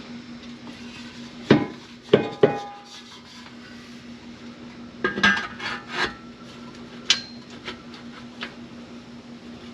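Steel exhaust pipe and mufflers clanking and scraping as they are handled and test-fitted under a car. There are about half a dozen sharp metal knocks, some with a short ringing, over a steady low hum.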